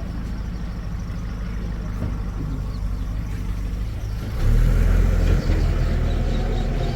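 Heavy diesel engine running steadily, then revving up sharply about four and a half seconds in and staying loud, with a brief dip in the middle of the loud stretch.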